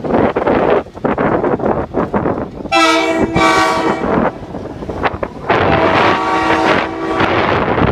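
Passing train sounding its multi-tone horn: two short blasts, then a longer one, over a loud, steady rumble.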